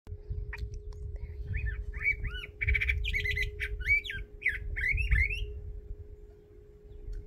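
A thrasher singing a quick, varied run of short whistled phrases that rise and fall, some of them harsh, for about four seconds before it stops. Under it are a faint steady hum and a low rumble.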